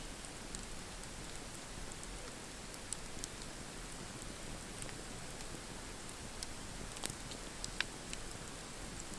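Campfire crackling: a steady hiss broken by scattered sharp pops and snaps, a few louder ones near the end.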